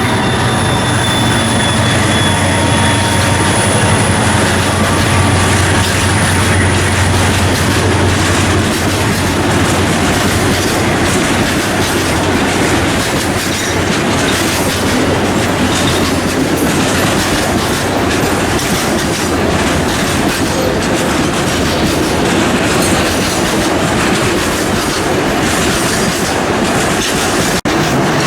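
Freight train rolling past, its wagons rumbling and clattering over the rail joints. A low drone and a thin high wheel squeal fade out over the first eight seconds or so. The sound cuts out for an instant near the end.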